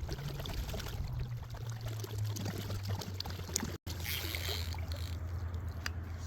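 A steady low hum with water lapping and trickling. The sound cuts out for an instant just past halfway.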